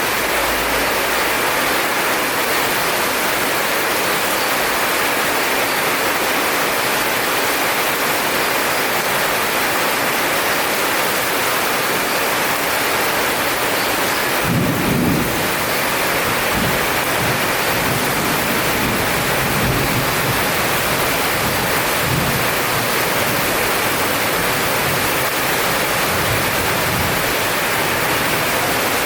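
Heavy rain falling steadily, with a rumble of thunder starting about halfway through and rolling on in waves until near the end.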